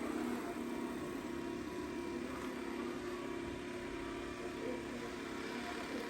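Dreame X40 Ultra robot vacuum running steadily as it cleans the floor, a continuous mechanical hum.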